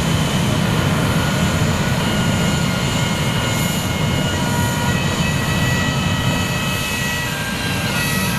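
Aircraft engines running: a steady, loud rumble with several high, steady whining tones laid over it.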